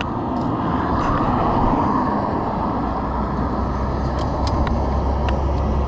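Steady wind rush and road noise from riding an electric motorcycle, with no clear motor whine, and a few faint clicks about four to five seconds in.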